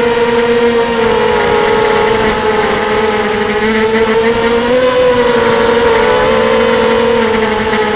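Blackout 250 mini quadcopter's brushless motors and propellers whining steadily in flight, the pitch dipping and rising a little with the throttle, with a scattered high crackle. The owner suspects at least one motor is on its way out.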